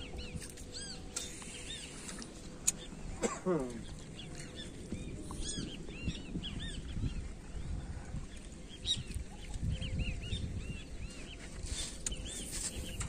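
Birds calling: many short, rising-and-falling chirps throughout, with one longer call sliding down in pitch a little after three seconds in. A single sharp click comes just before that call.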